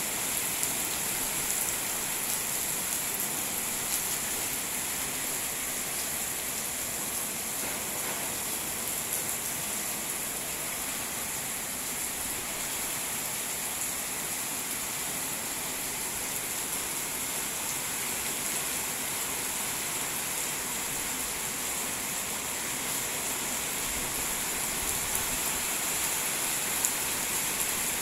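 Steady rain falling, an even hiss with a steady high-pitched band running over it and a few slightly louder drops.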